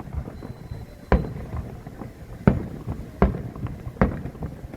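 Aerial fireworks bursting, a string of sharp booms with a short echoing tail. The four loudest come roughly a second apart, with smaller pops between them.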